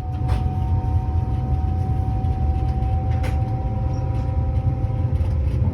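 Train running: a steady low rumble with a constant hum held at one pitch above it.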